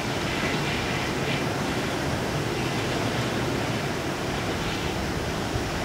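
Steady rushing roar of a flood-swollen river in typhoon conditions, mixed with wind.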